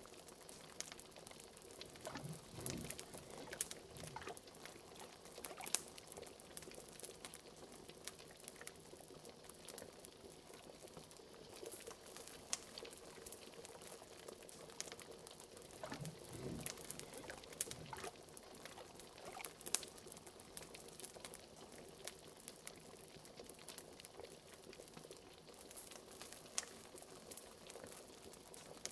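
Liquid bubbling steadily in a cauldron, with a constant stream of small pops and clicks and a couple of deeper bubble plops, one a few seconds in and one just past the middle.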